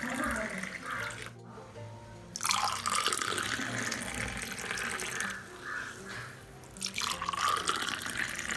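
Running water with background music, broken by short cuts about a second and a half in and again about seven seconds in.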